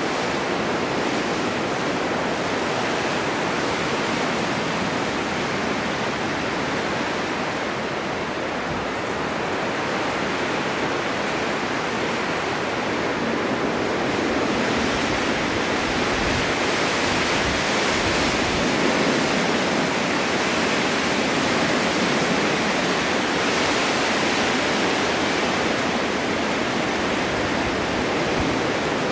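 Snowstorm wind blowing steadily, a dense, even rushing that swells a little about halfway through.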